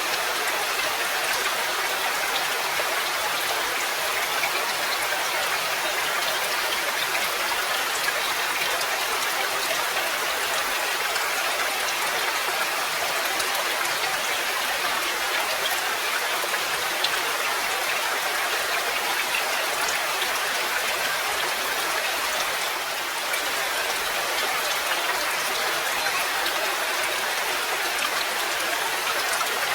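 Steady rain: an even, dense hiss of falling rain with many fine drop ticks scattered through it.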